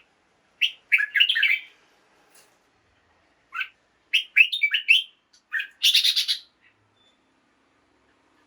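Red-whiskered bulbul singing in short whistled phrases and single chirps, with a harsh rasping call about six seconds in, then a pause near the end.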